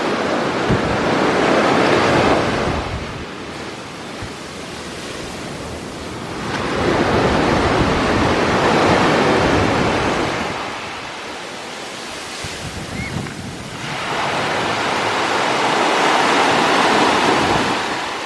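Sea waves breaking and washing up the beach, surging three times about seven seconds apart, with wind buffeting the microphone.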